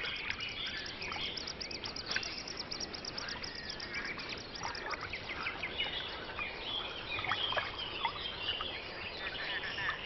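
Many birds calling at once: a dense chatter of short chirps and calls, some with duck-like calls among them.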